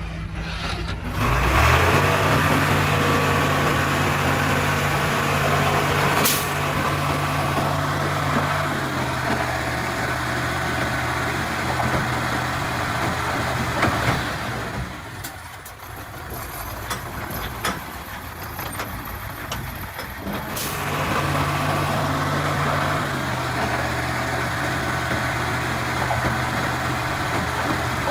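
Komatsu D31-P bulldozer's diesel engine working, its pitch stepping down about nine seconds in. It drops quieter for several seconds in the middle, with light clicks, then comes back up to a steady note and steps down again.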